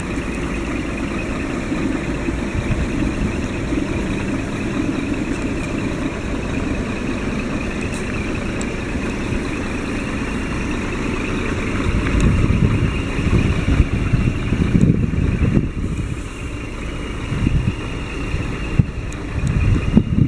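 Scania R480 truck's six-cylinder diesel engine idling steadily. From about halfway through, low gusts of wind noise hit the microphone.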